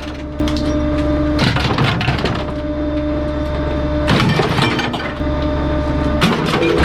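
Bulky-item garbage truck's compactor crushing a load: cracking and breaking three times over the truck's steady hum.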